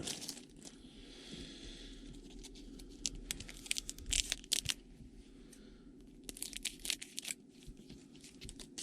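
Trading card pack wrapper being torn open and crinkled by hand, in clusters of sharp crackles.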